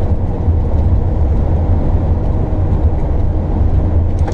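An RV driving down the road: a steady, low rumble of engine and road noise that stays even throughout.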